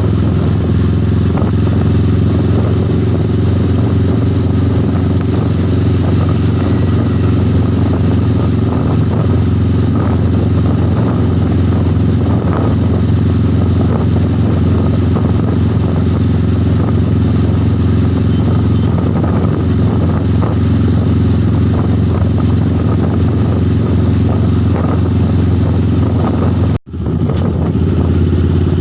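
Motorcycle engine running at a steady speed, its hum unchanging, with a brief cut-out near the end.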